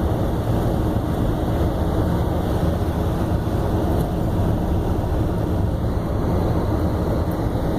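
Steady road and engine noise inside a car cabin at highway speed.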